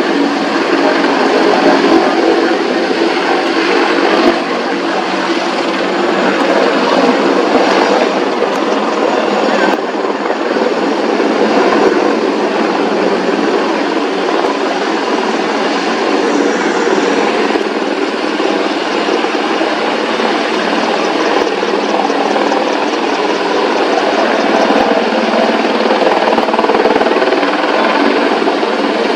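AH-64E Apache attack helicopter flying, a steady loud rotor and turbine noise.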